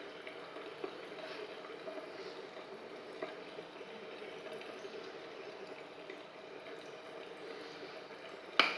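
Steady running water, a tap flowing, with a sharp click near the end.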